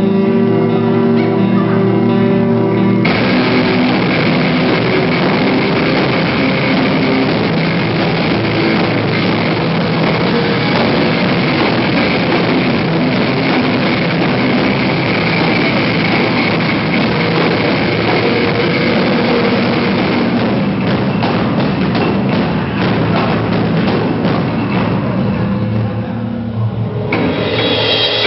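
Rock band playing live and loud: a sustained guitar chord rings for about three seconds, then drums and distorted guitars come in together as a dense full-band wall of sound, which drops back to a thinner, ringing texture near the end.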